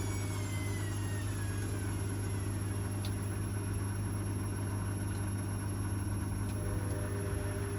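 Washing machine running: its motor's whine falls steadily in pitch over the first two seconds as the drum slows down, over a steady low hum that continues. A few faint clicks come later.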